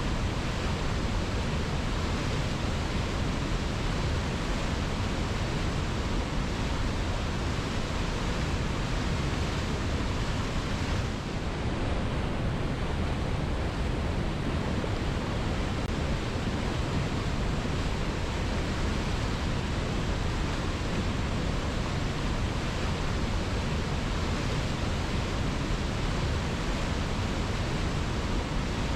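Waterfall rushing steadily: an unbroken, even noise of falling water, with a brief slight dip about eleven seconds in.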